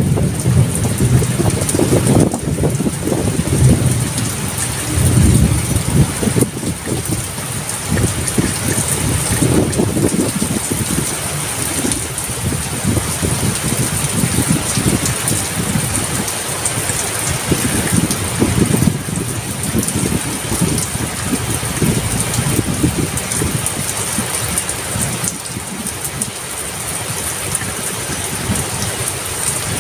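Heavy rain pouring steadily, with a low rumble that swells and fades several times through it.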